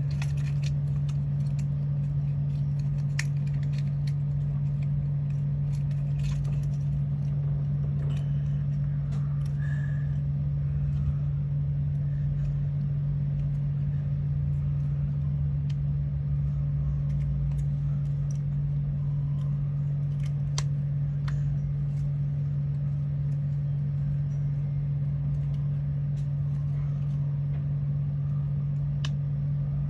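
A steady low hum, unchanging throughout, with scattered faint clicks and taps.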